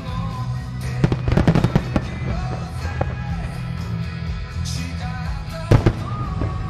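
Aerial firework shells bursting over a rock song with singing: a rapid cluster of bangs and crackles about a second in, and one loud bang near the end.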